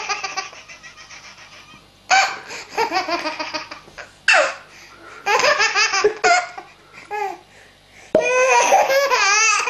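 A baby laughing hard in repeated bursts, each a quick run of ha-ha pulses, with short pauses between bursts.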